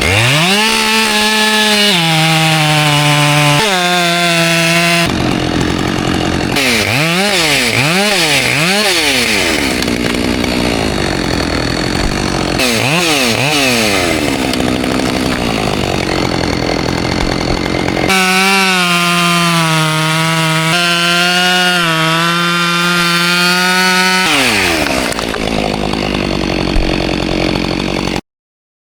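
Chainsaw engine revving up and running at high speed. Its pitch swings up and down quickly several times in the middle, then holds steady before winding down, and the sound cuts off suddenly near the end.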